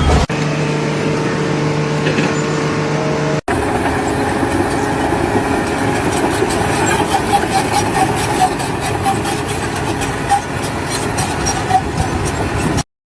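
Engine of a vehicle or machine running with a steady hum. After a cut it gives way to a noisier, rattling machine sound with rapid ticks, which stops abruptly shortly before the end.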